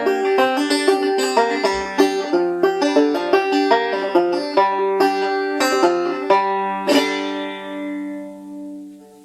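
Five-string banjo with a Remo Renaissance plastic head, picked two-finger style, playing the last phrases of a tune. About seven seconds in a final chord is struck and left to ring, fading out by the end.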